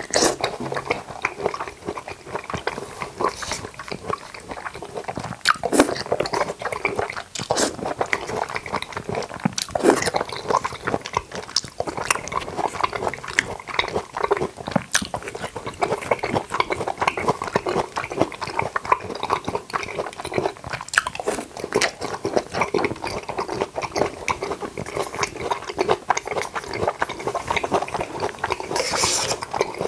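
Close-miked eating sounds: chewing and biting, with many short clicks and smacks following one another without pause.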